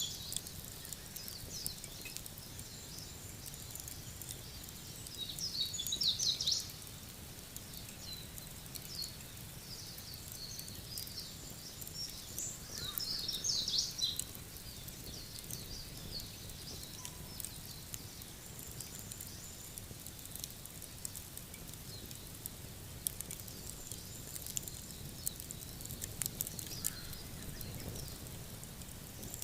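Birds twittering in two short bursts, over a steady low outdoor hum, with scattered sharp crackles from a wood fire that come more often near the end.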